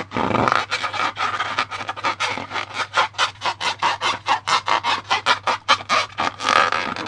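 Slime being squished and kneaded by hand: a fast, even run of wet squelches and clicks, several a second.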